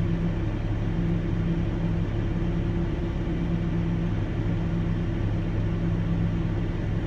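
Steady low hum of an idling vehicle engine, even and unchanging.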